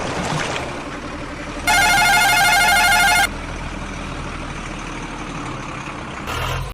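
An electronic toy sound chip plays a loud warbling beep pattern for about a second and a half, starting a couple of seconds in, over a low steady background noise.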